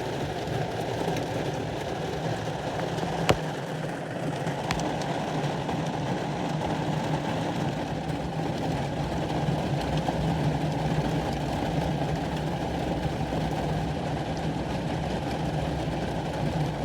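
Torrential rain pouring down, a steady dense rush with a low, even hum beneath it. A single sharp click about three seconds in.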